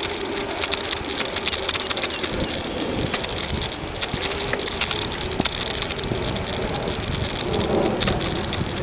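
Riding noise of a bicycle heard through a compact camera mounted on the bike: tyres rolling over the path, with a constant clatter of small rattles and knocks as the mount and bike shake.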